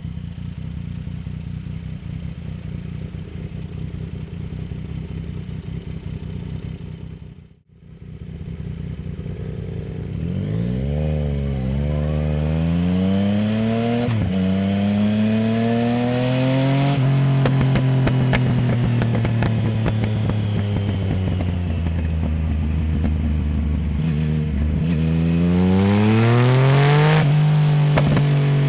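Yamaha Tracer 900 GT's three-cylinder engine through a full aftermarket exhaust with the dB-killer removed. It idles steadily, the sound drops out briefly about a third of the way in, and then the bike pulls away, revving up through two quick gear changes. It holds a steady cruise and accelerates again near the end.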